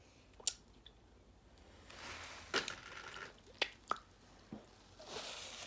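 Close-miked eating sounds: soft chewing with a few sharp, wet mouth clicks.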